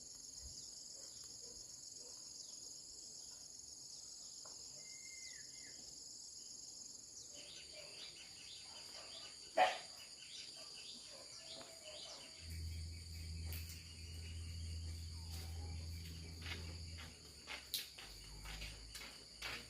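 Steady high chirring of crickets or other insects. A single sharp knock comes about nine and a half seconds in, and a low hum joins about twelve seconds in, with a few smaller knocks near the end.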